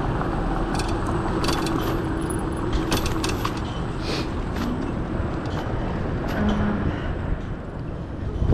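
Wind and road noise on a chest-mounted action camera while cycling, with traffic noise, a steady hum through the first few seconds, and several sharp clicks and rattles.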